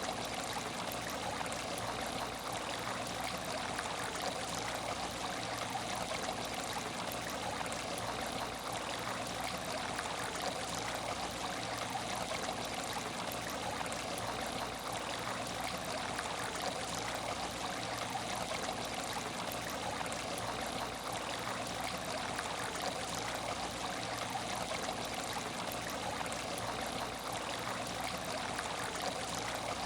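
Water moving in an empty aquarium tank: a steady, even rush that does not change.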